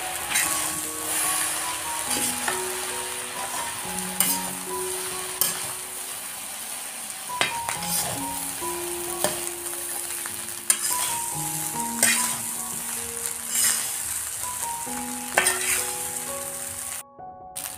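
Fried rice sizzling in a metal kadai while a flat metal spatula stirs and tosses it, with repeated scrapes and clicks of the spatula against the pan. Soft background music plays underneath.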